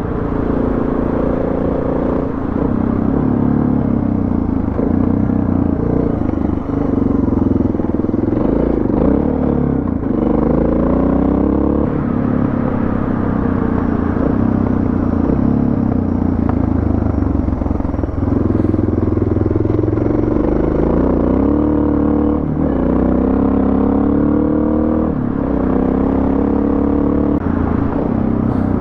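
Suzuki DR650's single-cylinder four-stroke engine running hard on a dirt road, its revs climbing and dropping again and again through the gears.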